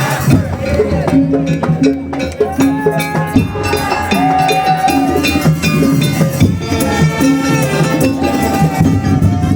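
Madurese daul music: a band playing a steady rhythm on drums and percussion under a wavering melody line.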